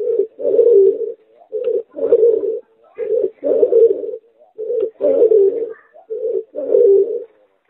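Pigeon × spotted dove hybrid cooing: a short low note and then a longer rolling coo, repeated about every one and a half seconds.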